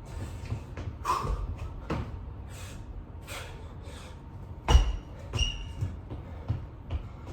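A person exercising hard through burpees: heavy breaths between scattered thumps and knocks on the floor, the loudest thump about four and a half seconds in.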